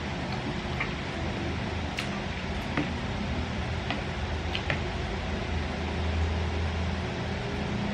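Steady low mechanical hum of room ventilation, with a few faint light clicks in the first half.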